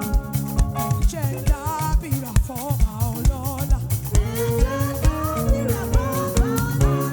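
Live gospel praise band playing an upbeat groove with a steady drum beat. About a second in, a wavering lead melody comes in over it.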